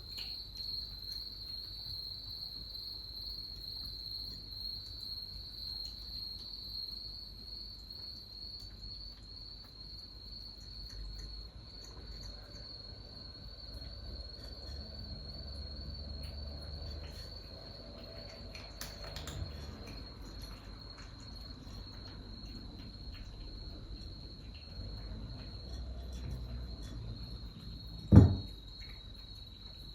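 Crickets chirping in a steady, fast pulsing trill, with faint scattered ticks and rustles. One loud sudden thump near the end.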